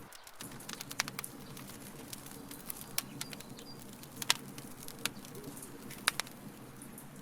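Burning wood crackling, with irregular sharp pops, the loudest about four and six seconds in, over a steady low background.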